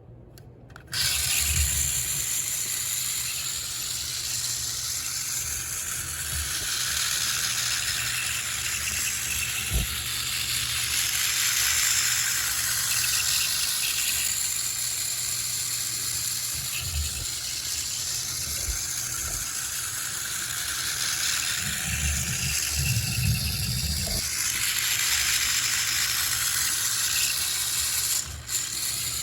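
Buddy L battery-powered tabletop toy train running on its track, its motor's brass gears giving a steady whirring gear noise. The whirr starts about a second in and swells and fades as the train goes around, with a few low knocks.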